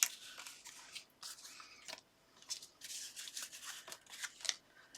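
Small cut pieces of card and patterned paper being handled and shuffled: a string of short, irregular papery rustles and scrapes.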